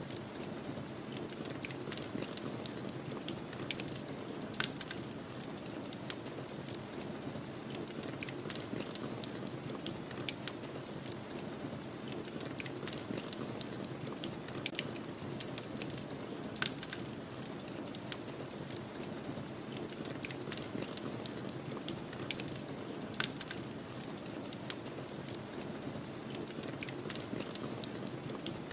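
Wood fire crackling, with frequent irregular sharp pops and snaps over a steady low rush of snowstorm wind.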